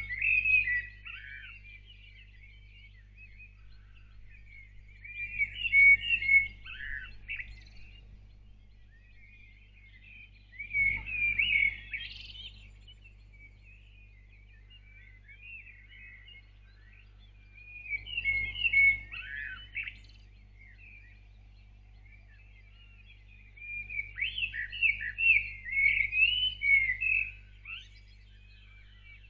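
A songbird singing its dawn song in five separate warbling phrases of quick chirps and trills, a few seconds apart, with the last phrase the longest. A faint low steady hum runs underneath.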